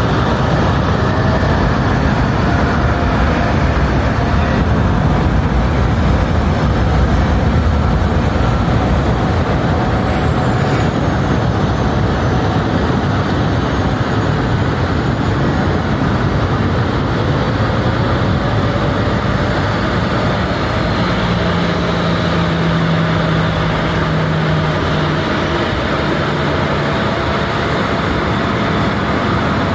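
Steady loud rushing noise of jet airliners on an airport apron, with faint whining tones gliding slowly in pitch and a steady low hum for a few seconds past the middle.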